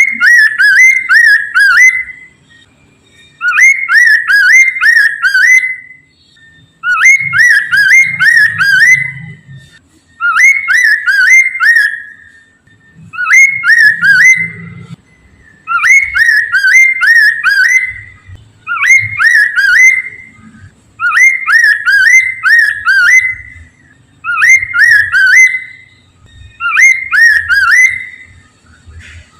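Poksay mandarin, a laughingthrush, singing its loud whistled song: the same phrase of quick, rising slurred whistles repeats about every three seconds, roughly ten times in a row.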